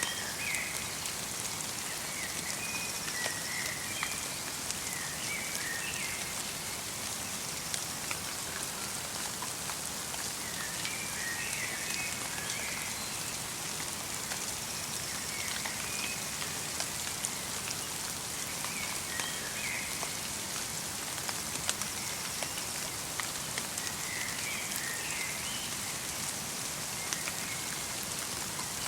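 Light rain falling through a winter forest: a steady hiss with many small drops ticking. A small bird chirps in short bursts every few seconds.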